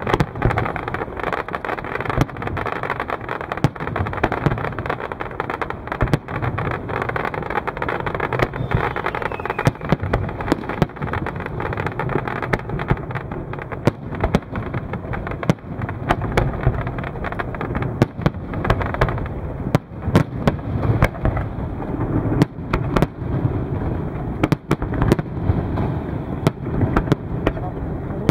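Large fireworks display: a dense barrage of bursting shells, many sharp bangs over a constant rumble.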